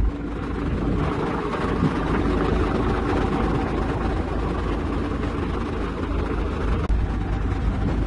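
Heavy diesel engine running steadily under load, a low drone with a rumbling haze above it.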